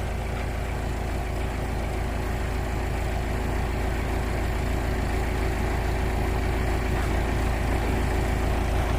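Backhoe's diesel engine running steadily, growing slightly louder.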